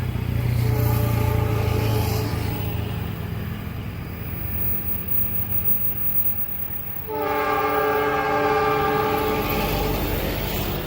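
Diesel locomotive's horn at a level crossing: a fainter chord over a low engine rumble for the first few seconds, then a long, loud blast of the multi-tone horn that starts abruptly about seven seconds in.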